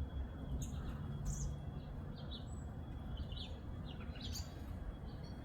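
Small songbirds chirping, many short high calls scattered throughout, over a steady low rumble of outdoor background noise.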